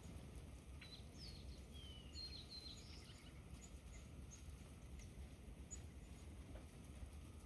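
Faint songbird chirps and short whistled notes, a cluster of them from about one to three seconds in, over a low steady outdoor rumble.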